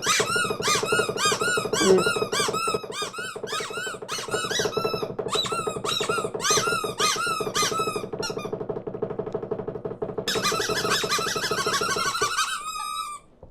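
A flock of cartoon small birds squawking and chirping over one another in rapid squeaky calls that rise and fall in pitch, over a steady low drone. A denser burst of chattering about ten seconds in cuts off suddenly near the end.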